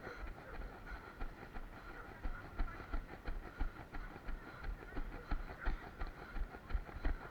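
Running footsteps thudding in an even rhythm, about three strides a second, with light clicks and rattles from gear jostled by each stride.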